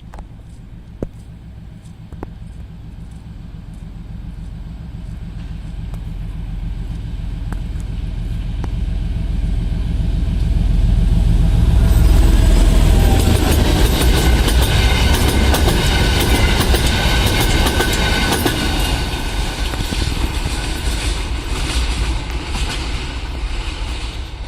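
M62 diesel locomotive's two-stroke V12 engine running as it approaches and passes about twelve seconds in, followed by its gondola cars rolling by with clicking wheels and a high squeal from the wheels on the rails.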